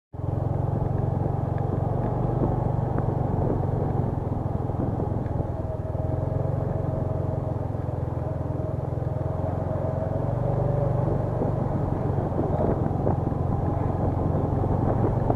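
A motor vehicle under way, its engine and road noise running steadily.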